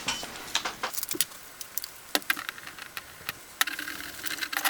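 Scattered light clicks and taps of hands and tools handling a graphics card while its old thermal paste is cleaned off.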